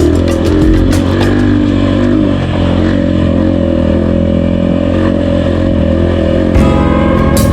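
Trail motorcycle engine running while riding, with the engine note changing abruptly near the end.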